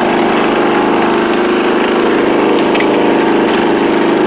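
Riding lawn mower engine running steadily and loud through a custom exhaust.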